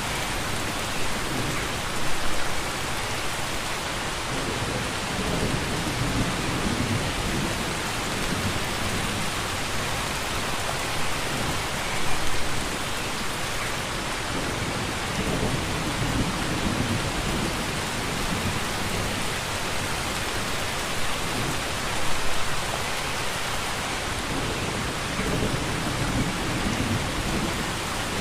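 Steady heavy rain, a dense even hiss, with low rolling rumbles of thunder underneath and brief louder surges about every ten seconds.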